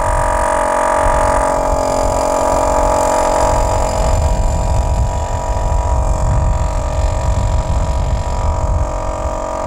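Diesel engine of heavy construction machinery running at a steady speed: a continuous drone over a low rumble.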